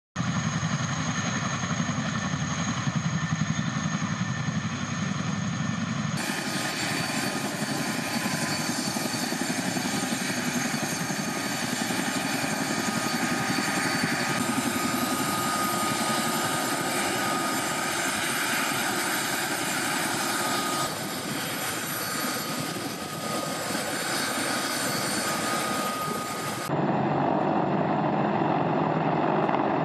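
Military helicopters' turbine engines and rotors running steadily while taxiing on the ground, a dense noise with steady tones through it. The sound changes abruptly about 6, 14 and 27 seconds in as the shot changes.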